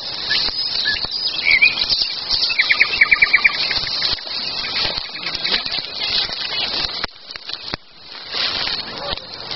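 Wild birds singing, with a fast trill of about eight evenly spaced notes near the middle and a few short chirps, over a steady high-pitched hiss of background song.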